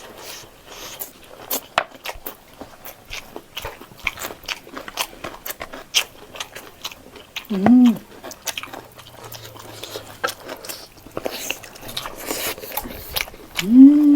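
A person eating rice with pork gravy close to the microphone: a dense run of irregular wet chewing smacks and small clicks. Partway through there is a brief voiced 'mm'.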